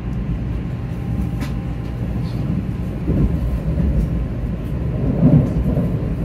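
Steady low rumble of a 500 Series Shinkansen bullet train running, heard from inside the passenger cabin as it pulls away from a station.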